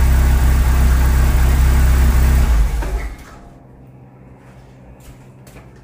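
Chevrolet Corsa 1.6 8-valve engine idling steadily, then switched off about three seconds in and dying away quickly. A few faint clicks follow near the end.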